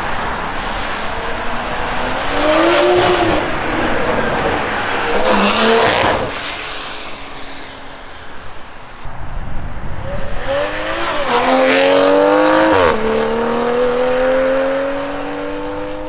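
2020 BMW M340i's turbocharged B58 straight-six accelerating hard, the engine note climbing in several pulls. About 13 s in the pitch drops sharply with a crack at an upshift, then climbs steadily again.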